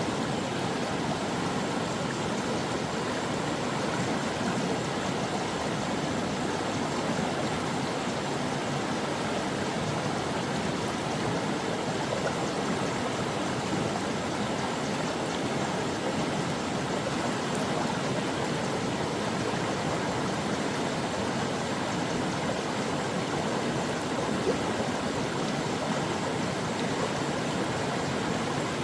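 Stream water flowing steadily, an even rushing and gurgling with no breaks or single events.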